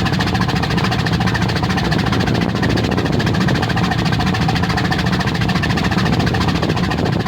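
Steady low drone of a ship's diesel engine under way, with a fast, even pulse and a wash of noise over it.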